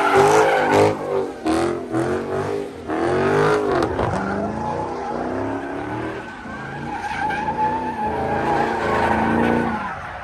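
A car sliding in donuts: its engine revs up and down again and again while the rear tires screech, the screech settling into a long steady squeal in the second half.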